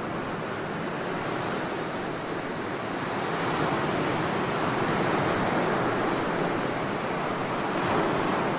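Ocean surf breaking on a beach, a steady rush of water that swells louder for a few seconds midway as a wave comes in, then eases off.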